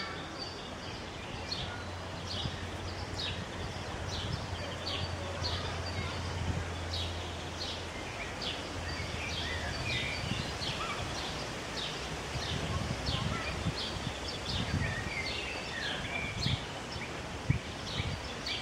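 Outdoor ambience of a small bird chirping over and over, short high chirps about two a second, over a low steady hum that fades after about eight seconds into irregular low rumbling. One sharp knock sounds near the end.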